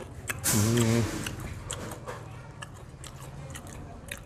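A person chewing crispy fried shrimp, with many small crunching clicks. About half a second in there is a short voiced hum from the eater, the loudest sound.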